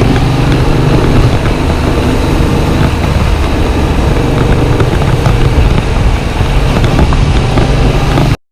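Yamaha MT-07's parallel-twin engine running as the motorcycle rides along, with road and wind noise. The sound cuts off suddenly near the end.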